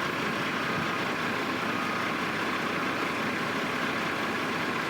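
Steady, unbroken drone of diesel construction machinery and trucks running at a construction site.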